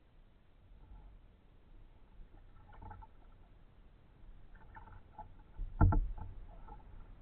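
Kayak paddle strokes: a couple of splashes and water dripping off the blades, with one sharp knock, the loudest sound, just before six seconds in.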